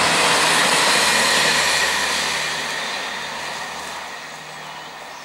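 Passenger train passing at speed on the main line: a loud rush of wheels on rail and air that holds for about two seconds, then fades steadily as the train recedes. A low, steady diesel engine drone from a Class 158 unit runs underneath.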